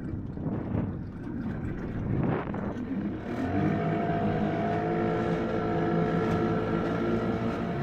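A boat's motor running: a rougher, noisier sound at first, settling into a steady hum about three and a half seconds in that grows louder near the end.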